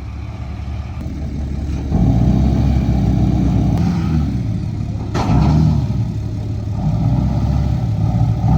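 Truck engine running and revving, getting louder about two seconds in, with a sudden louder burst about five seconds in.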